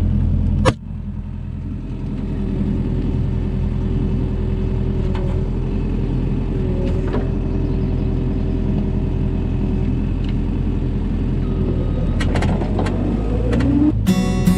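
A vehicle engine running steadily with a low drone, after a single sharp knock about a second in.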